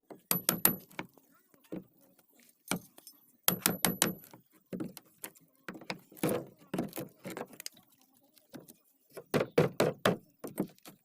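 Hammering during wooden boat repair: sharp blows in quick runs of three to five, some with a faint metallic ring.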